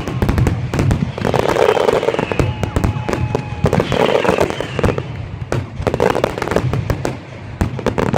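Fireworks display going off: a dense run of sharp bangs and crackles, with shells bursting every second or two.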